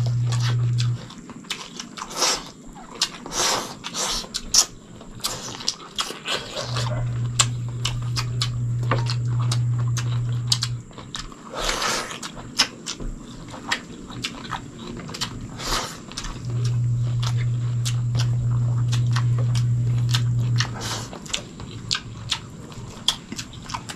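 Close-miked eating sounds of two people eating chicken sinigang and rice by hand: chewing with many small wet mouth clicks and smacks. A low steady hum switches on for a few seconds at a time, twice in the middle of the stretch.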